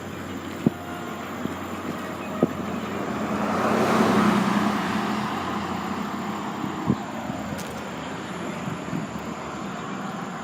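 A car passes by, growing louder to a peak about four seconds in and then fading away, over a steady bed of road and wind noise. A few sharp clicks sound along the way.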